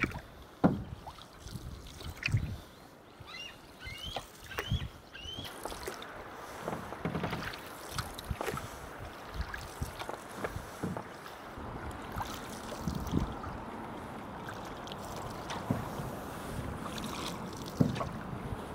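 Canoe paddles dipping and pulling through choppy lake water, with irregular splashes and knocks against the canoe, over a steady wash of wind and rippling water.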